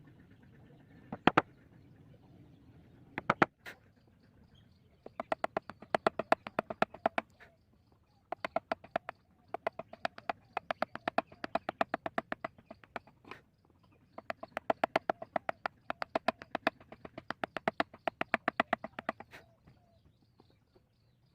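Mallet striking a carving chisel into wood: a couple of single knocks, then three long runs of quick, even taps at about five a second, with short pauses between runs.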